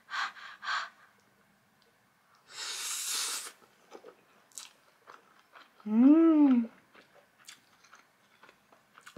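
Close-miked chewing of a mouthful of fried egg on truffle butter brown rice: soft wet mouth clicks throughout. Two quick breaths at the start, a breathy hiss about three seconds in, and a short hummed "mmm" that rises and falls in pitch a little past six seconds.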